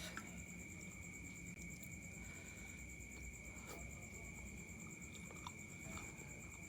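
Faint, scattered wet clicks of someone chewing chicken noodles close to the microphone, over a steady high-pitched hum.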